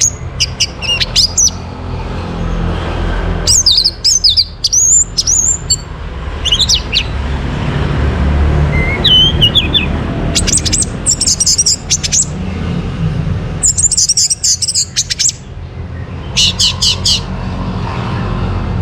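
Orange-headed thrush singing: loud, varied whistled phrases with quick pitch glides and trills, repeated in short bursts every second or two, over a steady low hum.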